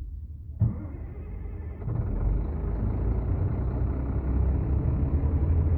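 A heavy machine's engine running with a low rumble. A sharp knock comes just over half a second in, and the engine grows louder from about two seconds on.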